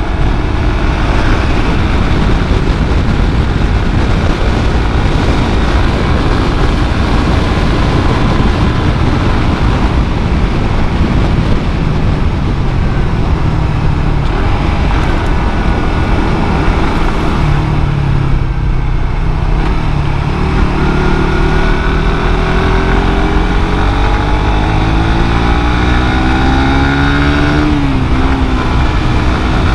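Suzuki GSX-R150's single-cylinder engine through its stock exhaust while riding, under heavy wind and road noise. The engine note eases off around two-thirds of the way in, then climbs steadily as the bike accelerates, drops sharply with an upshift near the end, and starts climbing again.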